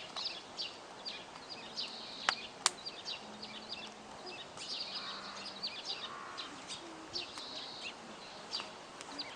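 Small birds chirping in quick, repeated short calls, with a wood campfire crackling underneath and two sharp pops about two and a half seconds in.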